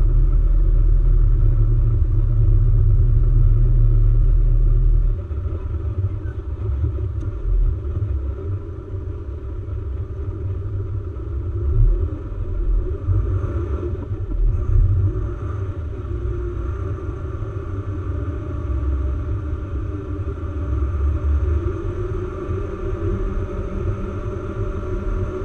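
4x4 expedition vehicle driving off-road, a steady engine and drivetrain rumble. A heavy low rumble is loudest at first and drops off abruptly about five seconds in, with a few brief bumps later on.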